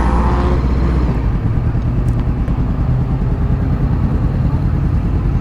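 Honda CBR500R motorcycle engine running steadily, heard close up from the rider's helmet, its note changing about a second in.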